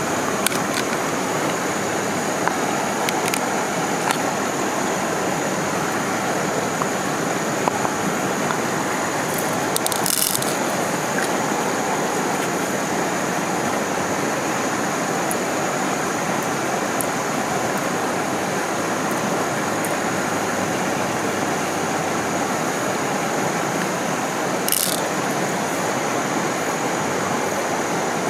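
Steady rush of stream water pouring below a waterfall, even and unbroken, with a thin steady high whine over it and a few brief clicks, two of them sharper, about ten seconds in and near the end.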